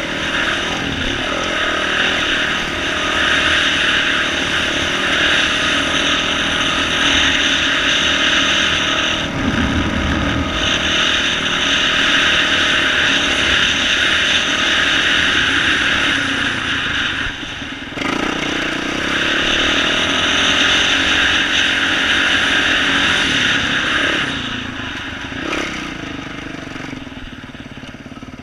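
2012 Yamaha YZ450F single-cylinder four-stroke dirt bike engine with an aftermarket exhaust, running under load with revs rising and falling as the throttle is worked. It drops off briefly about a third of the way in and again past the halfway mark, and runs quieter near the end.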